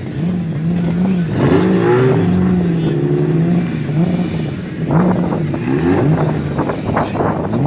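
Twin-turbo Toyota 2JZ straight-six engine, built to about 1000 hp, revving with its pitch rising and falling again and again, with a few sharp pops in the second half.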